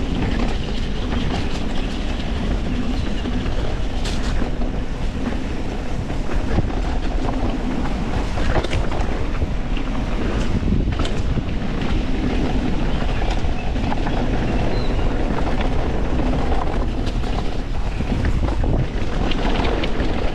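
Wind rushing over an action-camera microphone as a YT Industries Capra mountain bike descends a dirt trail, with tyre roar and frequent sharp clicks and knocks from the bike rattling over rough ground.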